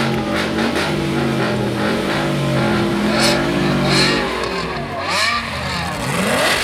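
Music with a steady beat for about the first four seconds, then a car engine revved in quick blips near the end, its pitch rising and falling.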